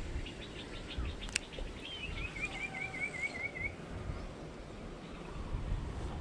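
Birds calling: a quick run of short high notes, then a warbling trill of about eight rapid up-and-down notes lasting nearly two seconds. Underneath is a low rumble of wind on the microphone, with a single sharp click about a second and a half in.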